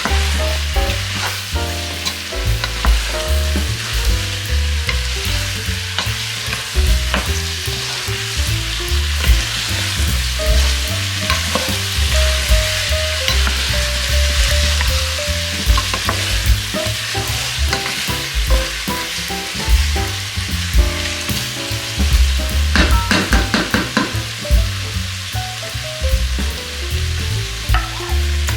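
Food sautéing in a frying pan: steady sizzling while a utensil stirs and scrapes against the pan, with a quick run of scraping strokes past the middle.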